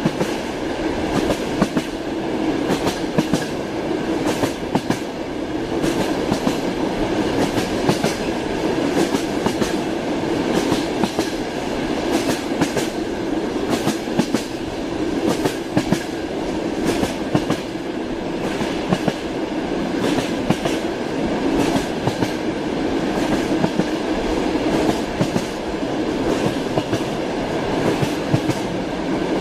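A train running: a steady rumble of railway wheels on the track, with frequent short clicks of the wheels passing over rail joints.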